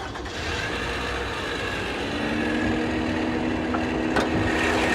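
Toyota RAV4 engine running at idle. About two seconds in, a steady whine sets in and holds, and there is a single short click near the end.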